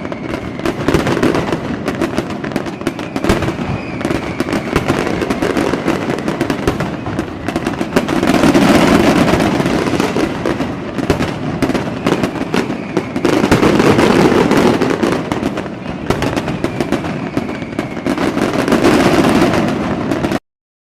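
Fireworks: dense crackling and popping bursts over a rumble of bangs, swelling louder in waves, with faint whistles from rising shells. The sound cuts off suddenly near the end.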